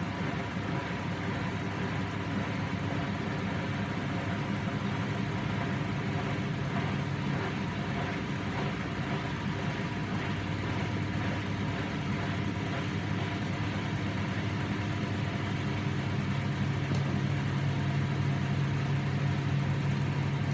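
Hoover washing machine's motor running steadily during an intermediate spin, a constant hum that grows a little louder in the last few seconds.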